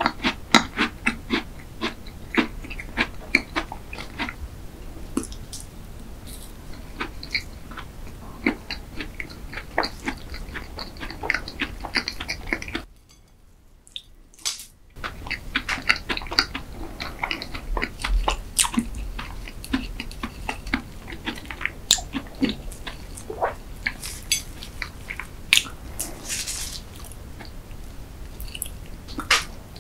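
Close-miked chewing of a chocolate Oreo tart: wet mouth clicks, smacks and light crunching. The sound drops away almost to nothing for a couple of seconds about halfway.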